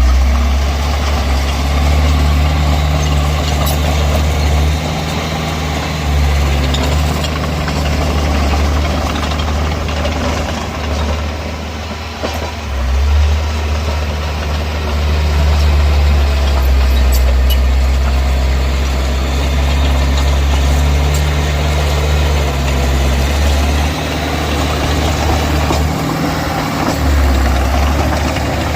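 Heavy diesel engine of earthmoving machinery running under working load: a continuous low drone that eases off and builds up again every few seconds.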